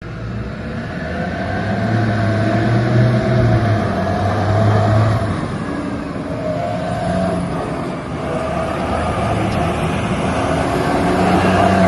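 Diesel engine of a 2007 JCB 722 dump truck running, its revs and loudness rising and falling several times as it works.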